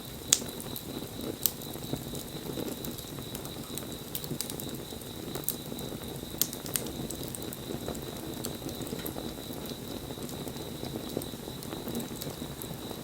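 Wood fire crackling: a low, steady rush of burning, broken by irregular sharp pops and snaps, with the loudest just after the start and about a second and a half in.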